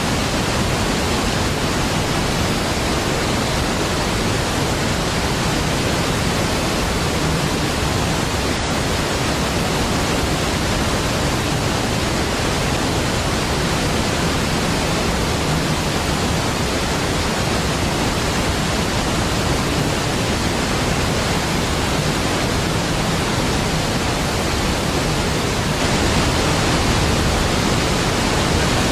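Large waterfall: a dense, steady rush of falling water spread evenly from deep to high, growing a little louder near the end.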